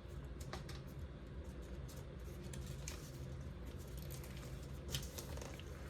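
Origami paper being folded and tucked by hand: faint, scattered crinkles and light ticks as the flaps are worked into a pocket, over a steady low hum.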